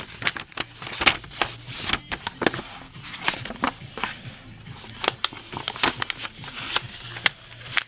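A square sheet of paper being folded and creased by hand, rustling and crinkling with many irregular sharp crackles.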